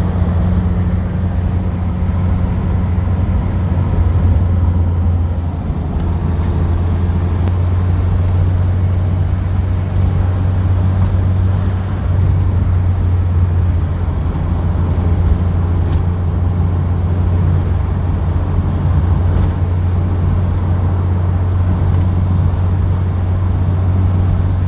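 Car engine and road noise heard from inside the cabin while driving at a steady speed: a loud, steady low drone that holds the same pitch throughout.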